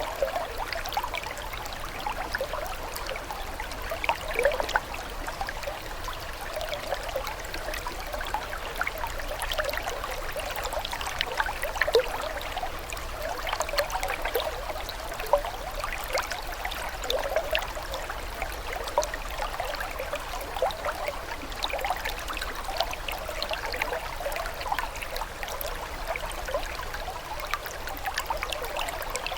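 Water trickling and babbling steadily, with many small splashes and gurgles and an occasional louder splash.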